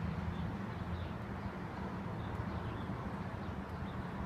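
Strong gusty wind rushing and buffeting the phone's microphone, a steady low rumble, with faint bird chirps over it.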